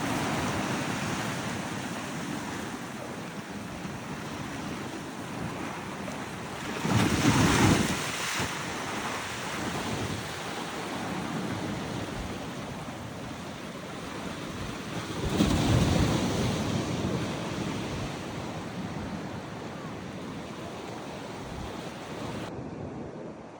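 Sea waves breaking and washing on a beach: a steady rush with two louder surges, about a third of the way in and again about two-thirds of the way in, with wind buffeting the microphone.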